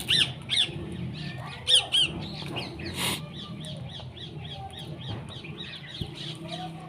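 A group of birds calling and chirping: many short, quick, downward-sliding calls, loudest in the first two seconds and then softer and denser. A brief rush of noise comes about three seconds in.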